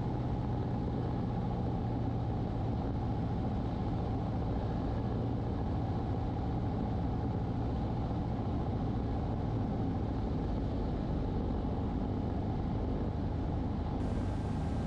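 Cessna 150's four-cylinder Continental O-200 engine and propeller droning steadily in flight, heard inside the cockpit. A faint hiss comes in near the end.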